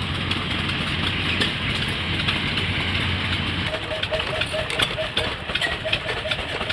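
Antique stationary gas engines running: a steady low engine hum, which drops away a little past halfway, leaving a regular clacking beat of about three strokes a second.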